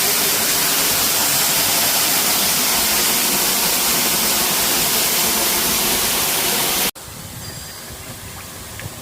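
Waterfall rushing, a loud steady roar of falling water. It cuts off abruptly about seven seconds in, leaving a much quieter outdoor hiss.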